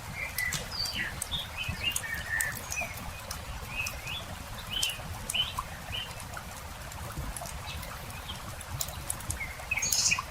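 Wood campfire crackling with frequent sharp pops, while small birds chirp in short calls throughout the first half and again just before the end.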